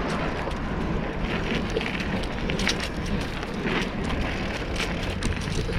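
Bicycle rolling along the road: a steady rush of tyre and wind noise broken by many small clicks and rattles.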